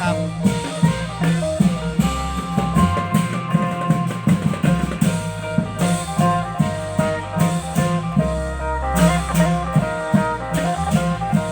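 Klong yao long-drum band playing: a steady, driving drum beat under a busy melodic line.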